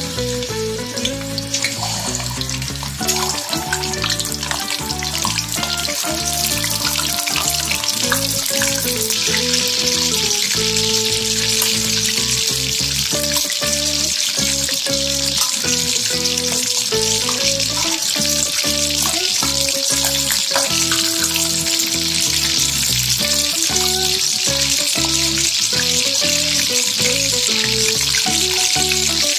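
Chicken pieces deep-frying in hot oil in a wok: a dense, steady sizzle that grows fuller and louder about nine seconds in. Background music plays throughout.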